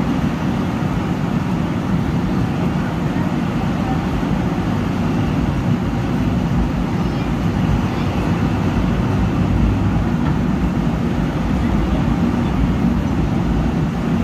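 Steady, dense low rumbling noise from a passenger train, with indistinct voices mixed in.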